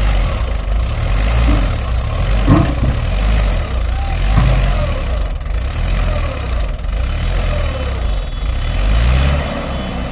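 Heavy diesel engine running hard, its pitch rising and falling as the throttle works, as a machine strains to get free of deep mud. There is a sharp knock about two and a half seconds in.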